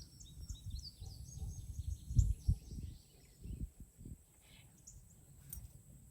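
Outdoor rural ambience: a string of short high bird chirps in the first second and a half, a few more later, over irregular low rumbles and thumps that are loudest a little after two seconds in.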